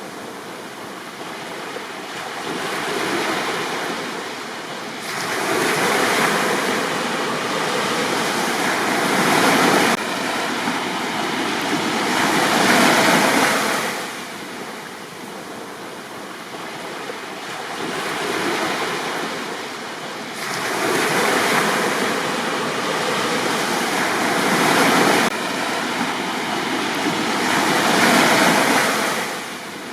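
Sea waves breaking and washing up a beach, a steady rush of surf that swells and fades in surges every few seconds.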